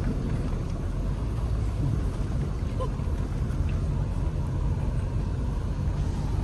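Steady low rumble of a car driving, with no distinct events.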